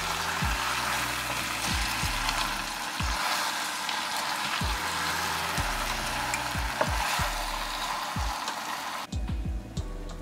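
Chicken leg pieces frying in thick masala with no added water, sizzling in a steel pot while being stirred with a spoon, with scattered dull knocks. The sizzling drops away suddenly about nine seconds in, leaving only faint clicks.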